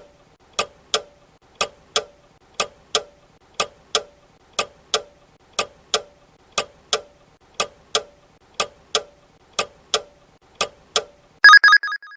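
Clock-ticking countdown sound effect: a tick-tock about once a second, followed near the end by a short, loud ringing alarm that signals the answer time is up.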